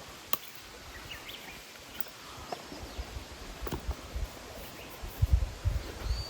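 Quiet outdoor ambience with a few sharp clicks and taps from handling work, then several dull thuds near the end.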